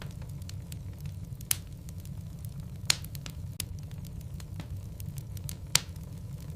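Logs burning in a fireplace: scattered crackles over a steady low rumble, with three louder pops spread through it.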